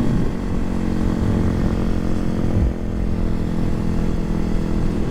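Kawasaki KLX300SM's single-cylinder four-stroke engine running steadily under way, over low wind rumble. The engine note dips briefly about two and a half seconds in, then settles again.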